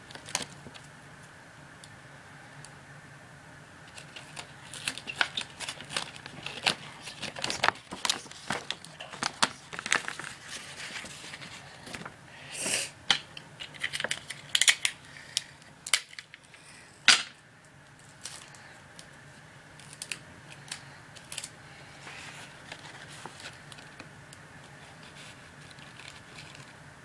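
Paper rustling and crinkling with sharp clicks and short tearing sounds as sticky tape is pulled off and pressed onto a folded paper model. The handling noises come in a scattered run through the middle, the loudest click about 17 seconds in, then settle back to faint rustles.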